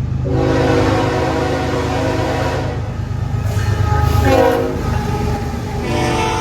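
Train passing close with its locomotive air horn sounding three blasts: a long one, a shorter one whose chord drops in pitch as the locomotive goes by, then a brief one at the end. A steady low engine and wheel rumble runs underneath.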